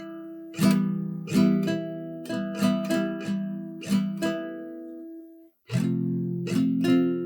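Background music: acoustic guitar playing chords with strummed strokes, breaking off briefly about five and a half seconds in before continuing.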